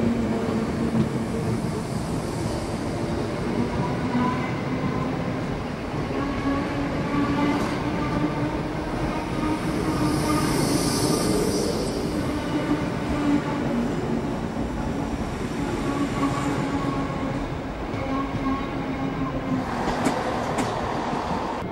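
Electric multiple-unit passenger train running along the platform, with a steady hum under the general noise of the train.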